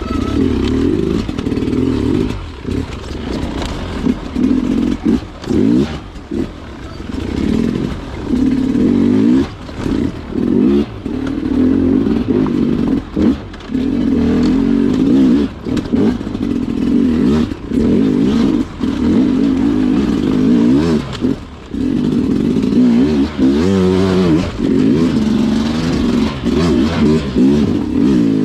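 Sherco two-stroke dirt bike engine revving up and down, with many brief drops in sound where the throttle is chopped. There are quick swings of rising and falling revs near the end.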